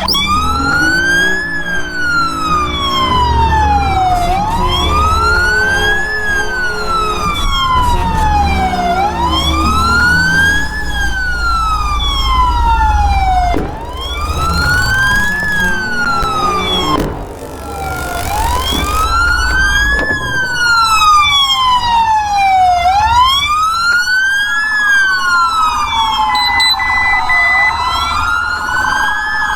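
Police car siren in wail mode, rising and falling slowly about every four to five seconds over a low rumble of engine and road noise. A short steady beep tone sounds near the end.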